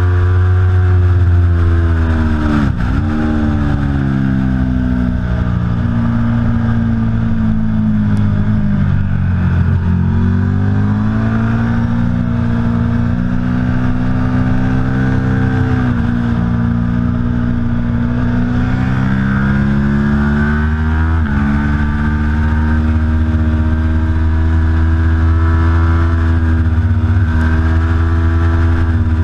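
Aprilia Tuono V4 Factory's V4 engine at racing speed on track, loud throughout. The engine note climbs as the bike accelerates and falls sharply about four times as it slows for corners.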